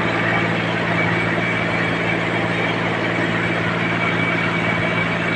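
Tractor's diesel engine running at a steady speed, an even drone with no change in pitch.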